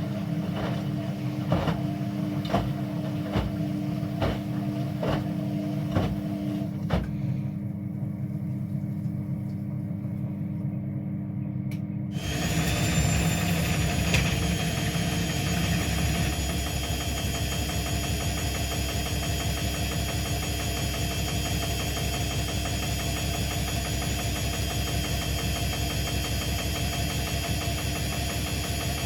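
Indesit MTSWA 61053 W front-loading washing machine. At first a steady low hum is heard, with regular knocks just under a second apart as the drum turns. About twelve seconds in the sound changes abruptly: a brief rising whine, then a steady, fuller motor-and-drum sound as the machine runs its spin.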